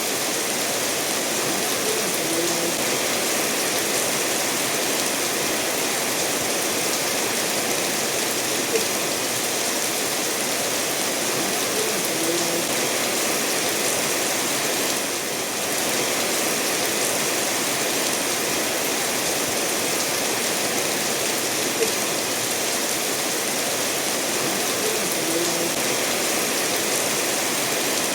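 Steady rainfall together with a stream running over stones, as a continuous hiss and rush with a few sharper single drops; it eases briefly about halfway through.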